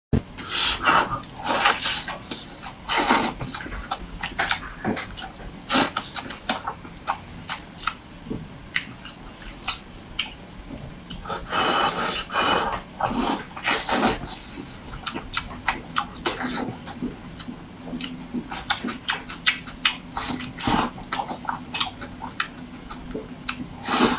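Close-miked eating sounds: a man chewing braised pork meatballs and rice, with irregular wet lip smacks and mouth clicks several times a second and a longer breathy stretch about halfway through.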